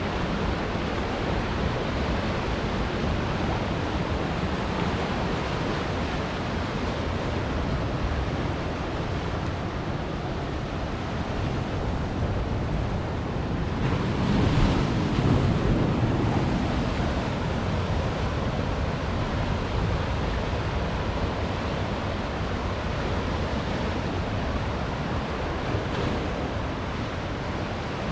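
Ocean surf breaking on rocks: a continuous wash of waves, with one louder wave crashing about halfway through.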